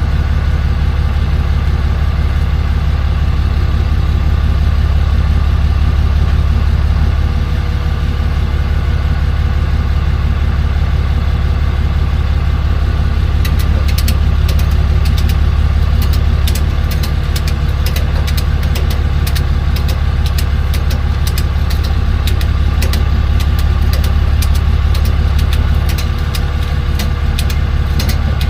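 A truck engine idling steadily with a deep low hum. From about halfway on, a quick run of sharp clicks or ticks rides over it.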